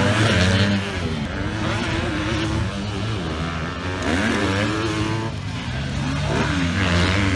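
Single-cylinder four-stroke KTM 250 SX-F motocross bike engine under hard riding, its pitch climbing and dropping back several times as the throttle is worked and gears change.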